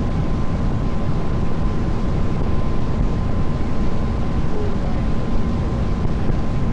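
A tour boat's engine running steadily while under way, a constant low drone with a faint steady whine, mixed with rushing water and wind noise.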